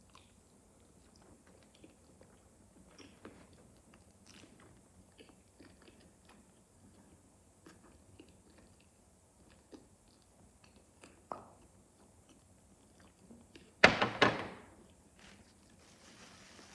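Close-up mouth sounds of a person chewing baked chicken: soft, scattered wet clicks. Near the end comes one brief, loud knock or clatter.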